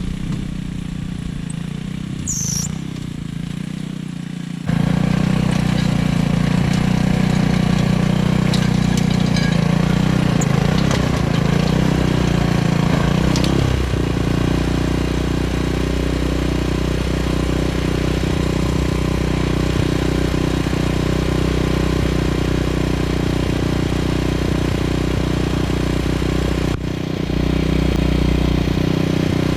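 Small gas engine of an Earthquake Pioneer rototiller running steadily. It gets abruptly louder about five seconds in, and its tone shifts about halfway through.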